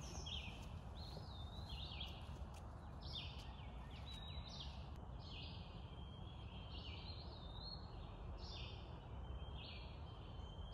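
Songbirds singing short, repeated whistled phrases in quick succession, about one or two a second, over a low steady rumble.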